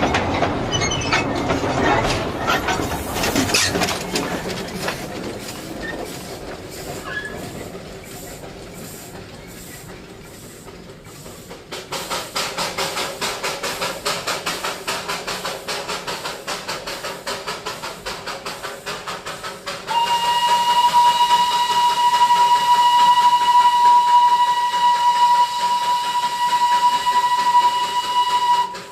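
Darjeeling Himalayan Railway toy train running, with clattering at first and then a regular beat of about two pulses a second. About twenty seconds in the locomotive's whistle sounds one long steady note, held for about eight seconds and cut off near the end; it is the loudest sound.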